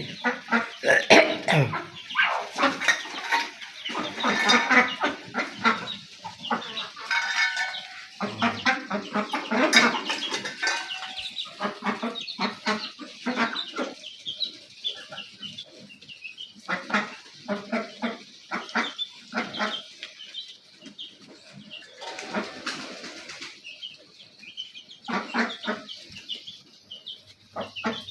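A flock of chickens and ducks feeding, with hens clucking and calling among many short clicks and taps.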